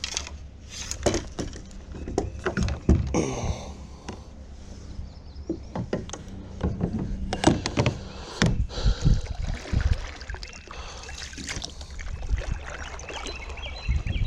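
Irregular knocks and clunks of gear and a paddle against a plastic kayak hull as it is handled, some sharp and several close together.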